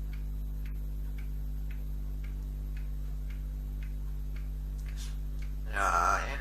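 Faint, even ticking, about two ticks a second, over a steady electrical hum. A voice-like call starts near the end.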